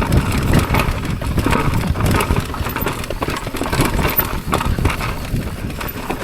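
A mountain bike rattling and clattering as it rides fast over rough, bumpy trail, with a constant low rush of wind buffeting the microphone and frequent sharp knocks.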